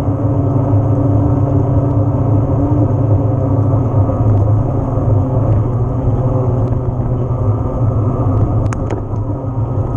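Wind buffeting the camera microphone and tyre noise from an e-mountain bike being ridden: a loud, steady low rumble, with a couple of sharp clicks near the end.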